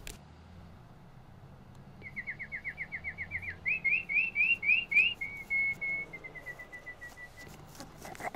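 A songbird singing clear whistled notes: first a quick run of falling slurs, then a run of rising slurs, then a series of steadier notes that trails off. A short rustle comes at the very end.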